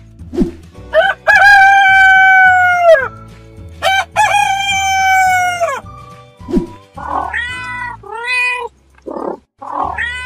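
Rooster crowing twice, each a long call that drops in pitch at the end, then a cat meowing several times, over background music.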